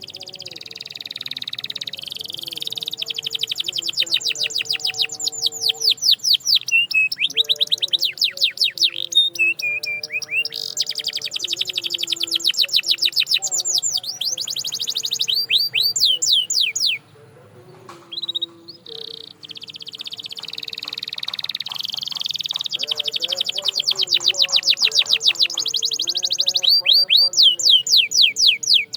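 Canary singing long, high-pitched trills of fast, evenly repeated sweeping notes, rolling from one run into the next, with a brief pause a little past halfway.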